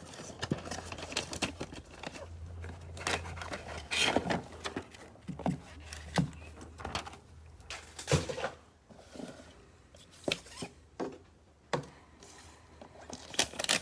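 Cardboard hanger boxes being cut open and pulled apart by hand: scattered irregular knocks, clicks and scrapes with some tearing of cardboard and paper packaging.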